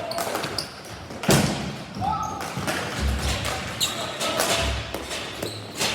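Ball hockey play: a string of sharp knocks and clacks from sticks, ball and boards, the loudest a hard bang about a second in, with a few short high squeaks.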